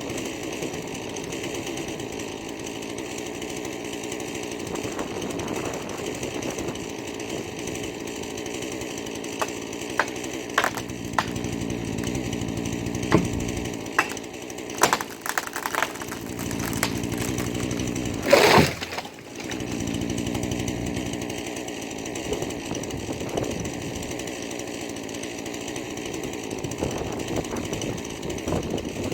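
Husqvarna 440e two-stroke chainsaw running steadily under load while cutting. Through the middle come several sharp cracks and snaps, and about two-thirds in there is one short, loud burst of noise before the saw carries on.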